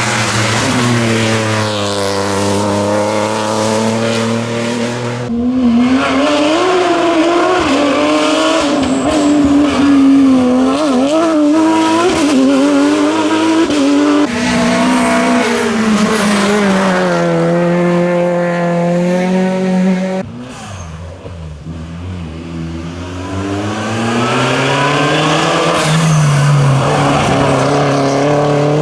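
Rally car engines revving hard at full throttle, the pitch climbing and dropping again and again through gear changes and lifts. The sound changes abruptly about five, fourteen and twenty seconds in as one car gives way to the next. It goes quieter for a few seconds after the twenty-second mark, then builds again.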